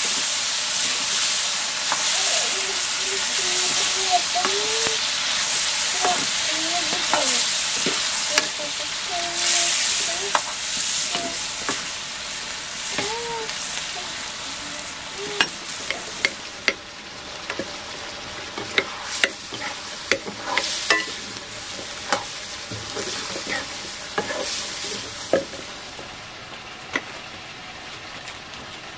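Buffalo meat curry sizzling in a black iron wok as a metal ladle stirs it, scraping and knocking against the pan. The sizzling is loud for the first half and dies down about halfway through, leaving quieter frying and sharp clicks.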